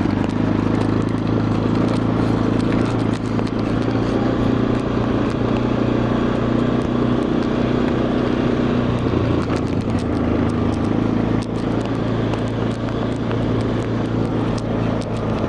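Quad bike engine running steadily while riding, its note shifting a little about ten seconds in.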